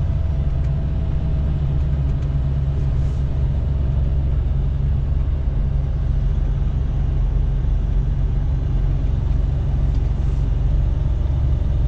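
Diesel engine of an International LT semi truck running steadily, heard from inside the cab as an even low rumble.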